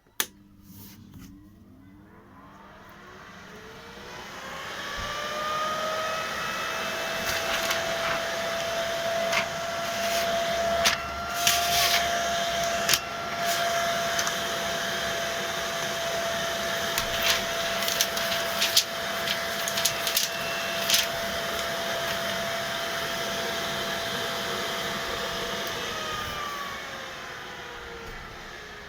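Ziehl-Abegg fan of a built-in manicure dust extractor switched on with a click, its whine rising in pitch as it spins up over several seconds, then running steadily. Near the end its pitch falls as it winds down. Several sharp clicks and knocks sound over the fan in the middle.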